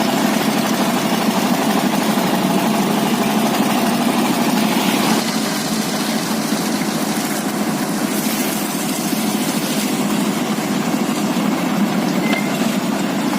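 Engine running steadily, dropping slightly in level about five seconds in.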